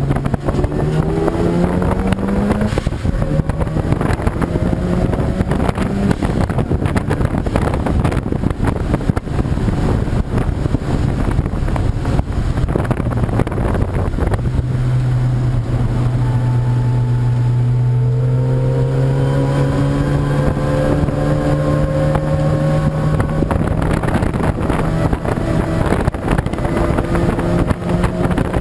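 Race car engine running hard, its pitch rising as it accelerates in the first few seconds, holding steady, then climbing slowly again through the second half.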